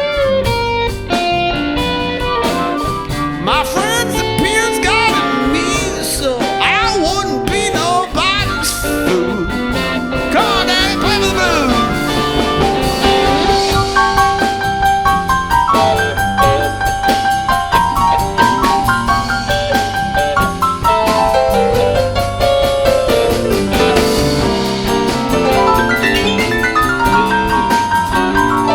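Live band playing an instrumental passage with drum kit. A lead instrument plays bending, wavering notes at first, then runs of steady notes.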